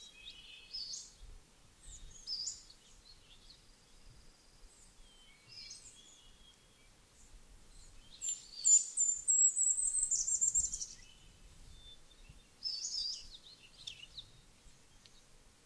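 Songbirds singing: short high chirping phrases every few seconds, and a louder high trilled song about eight seconds in that lasts a couple of seconds and drops slightly in pitch.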